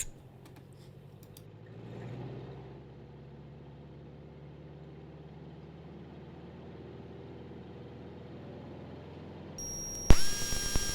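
Cessna 172RG's engine drones faintly at takeoff power during the climb-out. About a second before the end, the electric hydraulic pump that retracts the landing gear starts with a hum whose whine sweeps up quickly to a steady pitch and holds.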